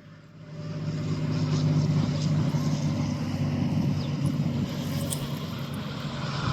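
A motor engine drones steadily, rising in about half a second in and holding at a steady pitch.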